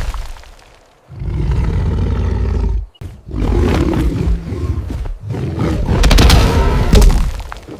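Lion roaring twice: a roar beginning about a second in that cuts off abruptly, then a longer roar that fades near the end.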